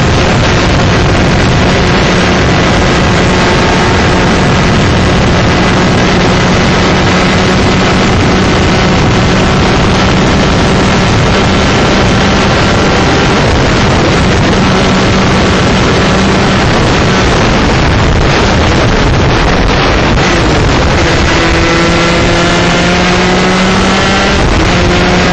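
125cc two-stroke shifter kart engine running flat out at high revs, with heavy wind noise on the microphone. About three-quarters of the way through, the revs drop off briefly, then climb again as the kart accelerates back up through the gears.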